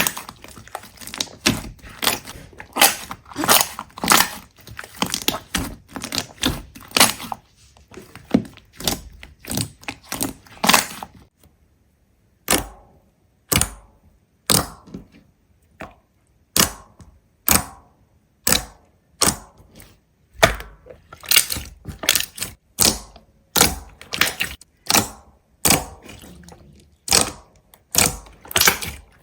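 A series of sharp knocks and cracks, crowded together at first, then settling into single strikes about once a second.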